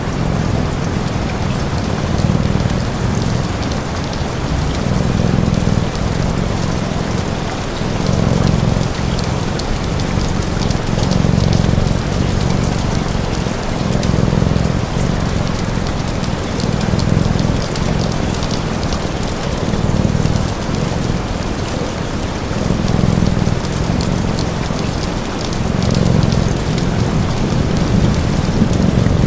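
Steady rain, with a cat's low purr swelling and fading every second or two, and scattered small crackles of a wood fire.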